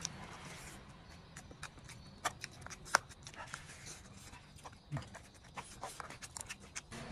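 A person chewing a mouthful of food close to the microphone, a quick run of sharp smacking clicks, loudest about three seconds in.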